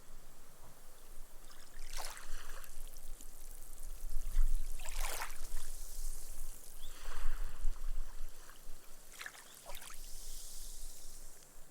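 Small, gentle waves washing up onto a sand beach, each wash hissing as the water soaks into the sand and the foam fizzes away. About four washes come and go, with a longer high fizzing hiss near the end.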